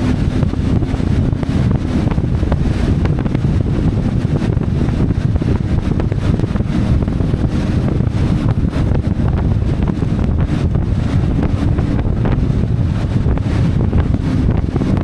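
Wind rushing over the microphone on a moving CFMoto 450MT motorcycle, with the bike's parallel-twin engine running steadily underneath. A loud, even low rumble with no changes.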